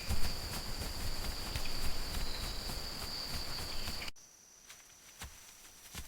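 Jungle insect ambience: an insect's steady high-pitched trill over a rushing background with scattered ticks. About four seconds in it cuts abruptly to a quieter ambience with a different, higher insect tone and a few soft knocks.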